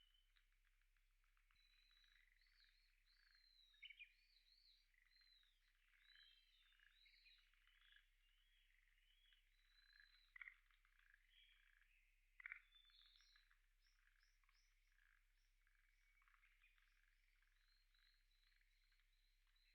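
Faint chorus of several wild birds singing, with many short whistled and chirped phrases overlapping, and three sharper, louder short calls spread through.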